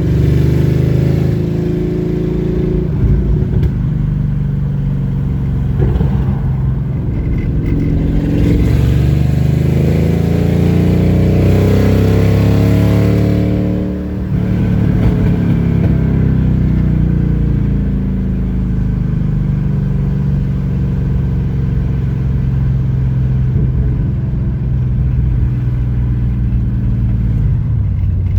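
A vehicle's engine and exhaust revving loudly under acceleration, rising in pitch for several seconds, dipping briefly at what looks like a gear change about halfway through, then pulling again and running steadier.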